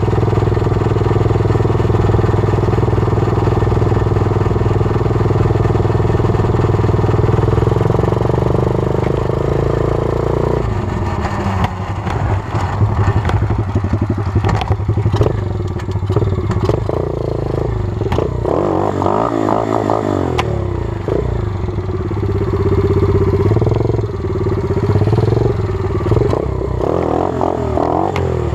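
120cc single-cylinder pit bike engine running at a steady pitch for about ten seconds, then revving up and down with repeated rises in pitch, with clattering and rattling knocks mixed in.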